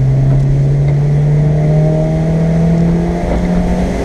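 Car engine under full throttle, its note rising steadily as the car accelerates, then falling at the end as it shifts up a gear.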